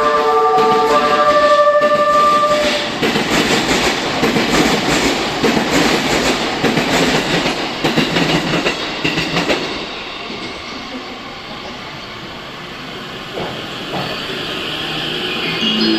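E257 series electric train's music horn finishing its short melody about two seconds in, then the train rolling out past the platform with wheels clattering over rail joints, the rumble fading at about ten seconds.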